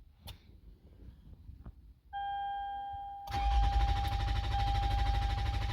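A steady high electronic warning tone comes on about two seconds in. Just over a second later the 2008 Toyota Sienna's starter begins cranking the engine fast and steadily without it catching: a crank-but-no-start, which the owner puts down to the remote starter's transponder bypass coil not passing the key signal to the immobilizer.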